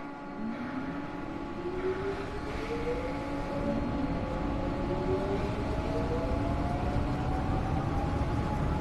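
Seoul Metro Line 2 subway train accelerating from a station: its traction motors give a whine of two tones rising steadily in pitch, over running rumble that grows louder.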